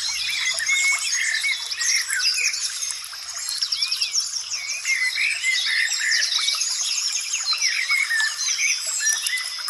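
A dense chorus of many wild birds chirping, whistling and trilling at once, calls overlapping without pause, over a steady high-pitched hum.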